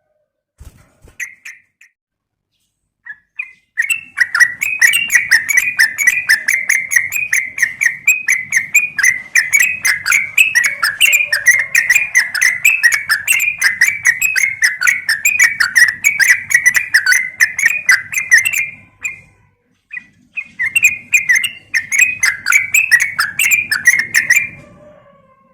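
Yellow-vented bulbul (trucukan) calling, a female's call to a male used as a lure. After a few scattered notes it breaks into a long, fast run of chattering notes, pauses briefly, then gives a second shorter run near the end.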